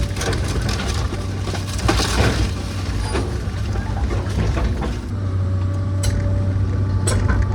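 A heavy machine's engine running steadily during demolition of an old wooden house, with scattered knocks and clatter of timber and debris being pulled apart; two sharp cracks stand out near the end.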